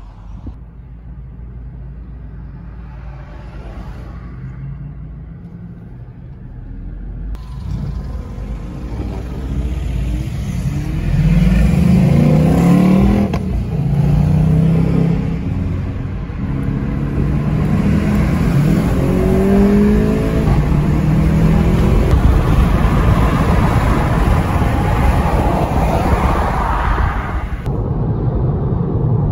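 Car engine accelerating hard through the gears, heard from inside the cabin. Its note rises several times and drops back at each gear change, over road and wind noise. Before that, a low steady rumble of engines idling.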